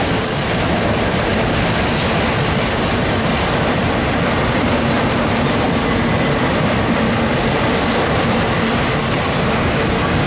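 Union Pacific freight train of autorack cars rolling past close by: the loud, steady noise of steel wheels running on the rails.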